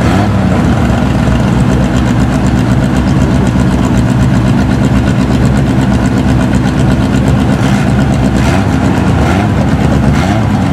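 Dirt-track stock car engines idling loud and steady, several cars running together close by.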